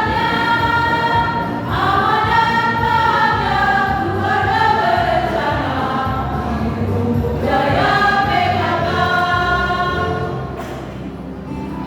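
Choir singing a sustained, slow-moving phrase in several voices, fading a little near the end.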